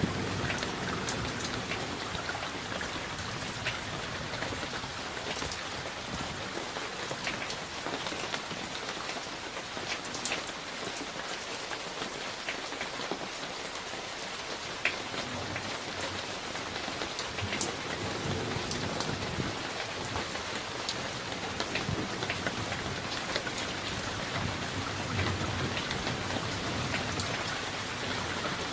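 Steady summer rain, with many individual drops striking a hard surface close by. A faint low rumble of distant thunder comes and goes at times.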